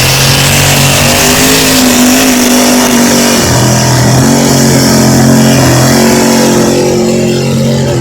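Old Chevy mud-bog truck's engine running hard at high revs through the mud pit; the pitch sags briefly about three seconds in, then climbs back up.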